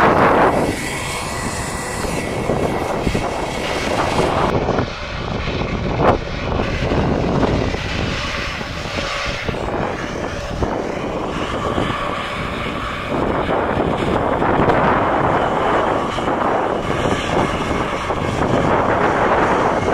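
Airliner engines running, a loud, steady rush of noise with a low rumble underneath.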